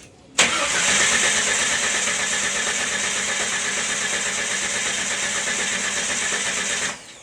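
Jeep Wrangler engine cranking on its starter motor for about six and a half seconds without catching, even with starting fluid sprayed into the throttle body, then cutting off abruptly. The owner puts the no-start down to a lack of spark.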